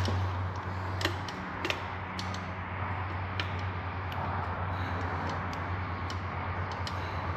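Scattered light metallic clicks and taps of a bolt and tools being handled while a turbo bolt is started by hand, over a steady low hum.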